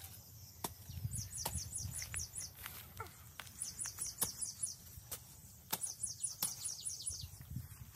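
A bird singing the same phrase three times, a quick run of about six high, falling chirps, over scattered dull knocks of a short-handled hoe chopping into wet soil.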